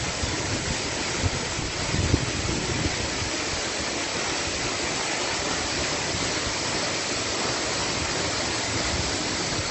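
Tall waterfall, about 50 meters high, crashing down as a steady full rush of falling water and spray, with faint low wind rumble on the microphone now and then.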